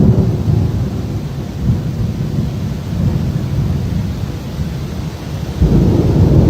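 Rainstorm: a steady rain hiss under a heavy low rumble that swells louder about five and a half seconds in.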